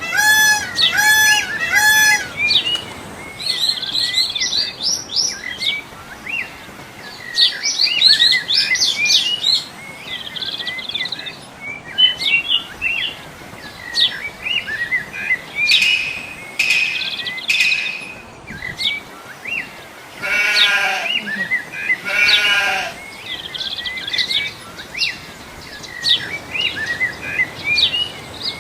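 Many birds chirping and trilling in a busy dawn chorus, with overlapping short high calls. Near the start there are three clear pitched notes, and about twenty seconds in there are two longer, lower calls.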